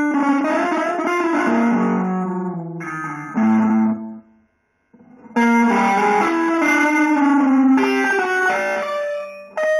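Electric guitar playing a melodic line of falling phrases. It stops for under a second about four seconds in, then starts again.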